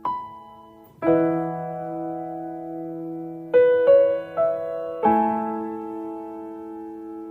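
Slow, soft background music on piano or electric piano: sustained chords struck every second or so, each fading away, with a few quick notes near the middle.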